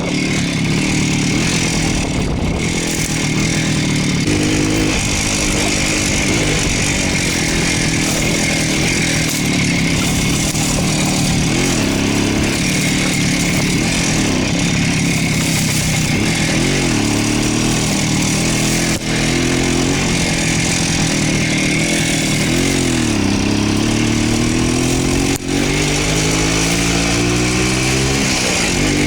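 A Voskhod motorcycle's two-stroke single-cylinder engine runs under way, its pitch rising and falling with the throttle. It revs in a long rise near the end.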